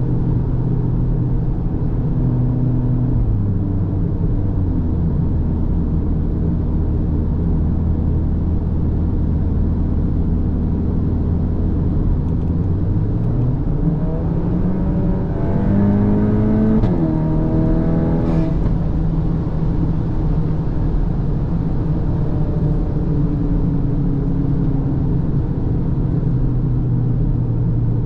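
Cupra Formentor's turbocharged 2.0 TSI four-cylinder engine under way, cruising steadily over road noise. About halfway through it revs up under acceleration, drops sharply in pitch at a gear change, climbs briefly again and then eases back to a steady cruise.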